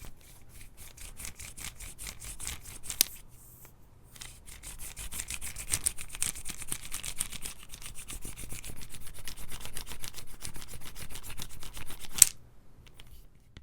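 Close-up rubbing or scratching: quick, even strokes, several a second. A sharp click comes about three seconds in and another just before the end.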